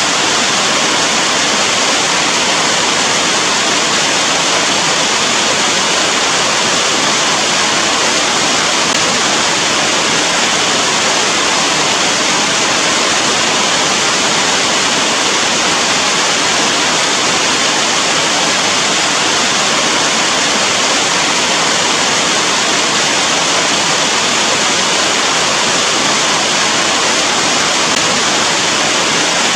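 Steady heavy rain, a dense, even hiss with no single drops or pauses standing out.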